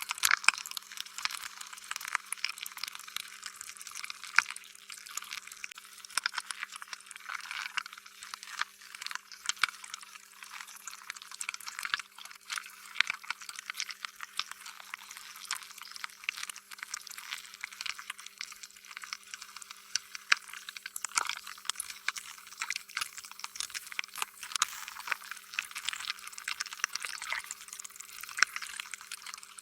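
Slime being squished and stretched by hand, a continuous run of small wet, sticky clicks and squelches with no pause.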